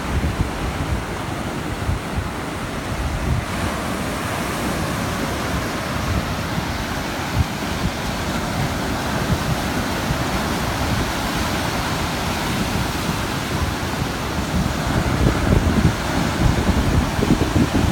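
Ocean surf washing onto a beach, with wind buffeting the microphone in low rumbling gusts that grow stronger near the end.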